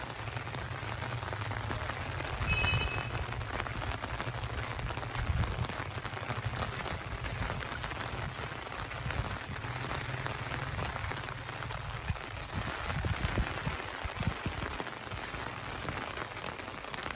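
Rain falling steadily, an even hiss, with a low rumble underneath and a brief high tone about three seconds in.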